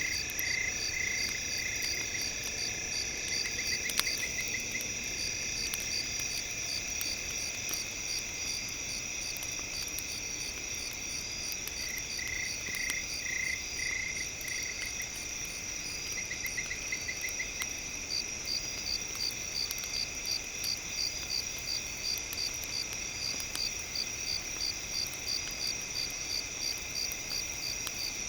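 Night insect chorus: a steady shrill drone with pulsing cricket chirp trains that come and go, and a regular chirping pulse through the second half. A single sharp pop about four seconds in.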